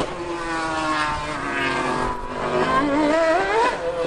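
High-revving racing engines: the pitch slides down, then one engine climbs steeply near the end as it revs up.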